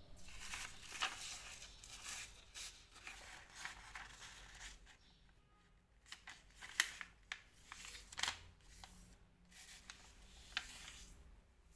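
A sheet of paper being handled and folded: irregular crisp rustles and creasing strokes, with a quieter stretch about five to six seconds in.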